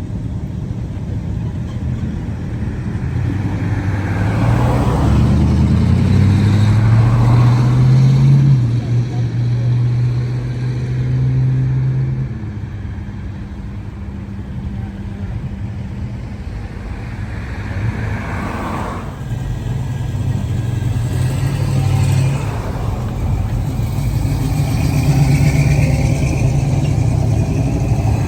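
Car engines driving past one after another, rising in pitch as they accelerate about three seconds in and again near the end, with a lull in between.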